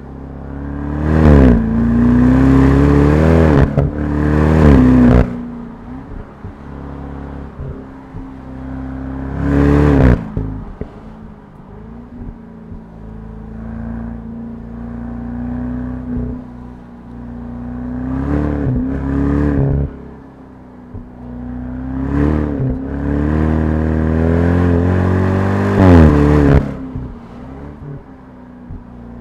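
BMW 650i's twin-turbo V8 accelerating hard four times, its pitch climbing and dropping sharply at each upshift. Between the pulls the engine settles to a steadier low drone while cruising.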